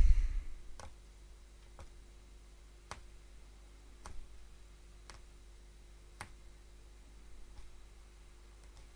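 Hollow punch needle punching thread through woven punchcraft backing fabric: single soft clicks about once a second, stopping after about six seconds, with a low thump at the very start.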